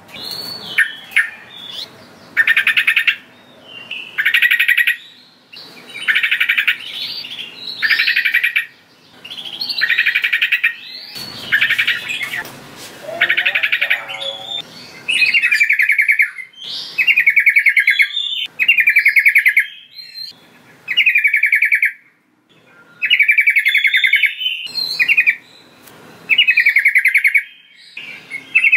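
Yellow-vented bulbul (trucukan) singing, repeating loud short bursts of quick notes, each under a second long and about one every second or two.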